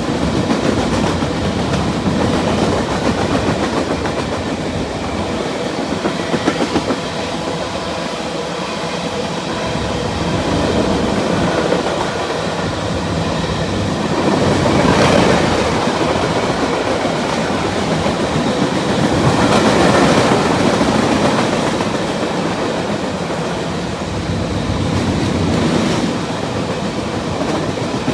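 Norfolk Southern freight train rolling past, its steel wheels clattering steadily on the rails, growing louder twice around the middle.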